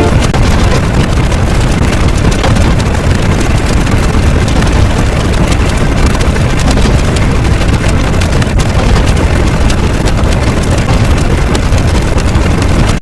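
A loud, steady engine-like rumble, running without a break.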